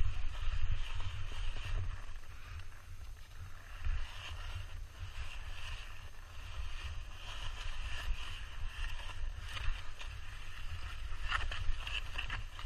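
Wind rumbling on the microphone over a steady hiss of skis sliding on snow, with a few sharper scrapes near the end.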